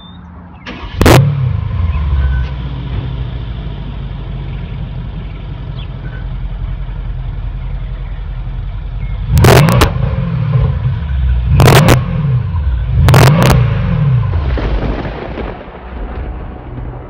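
Mercedes-Benz S63 AMG's 5.5-litre twin-turbo V8 starting with a loud flare about a second in, then idling. Between about nine and fourteen seconds in it is revved three times, each rev rising and falling back to idle.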